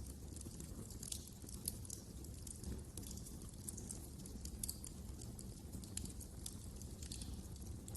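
Wood fire crackling in a fireplace, with frequent small pops and snaps over a low steady rumble.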